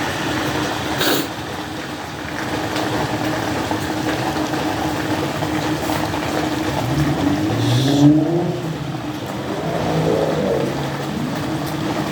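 Steady hiss of rain and wet street noise, with a car engine revving up and rising in pitch about seven to eight seconds in. A short sharp knock about a second in.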